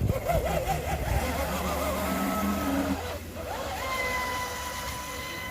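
Proboat Sonicwake RC boat's brushless electric motor whining over water. Its pitch wavers for the first few seconds, then rises sharply a little past halfway and holds steady as the boat picks up speed after running sluggishly.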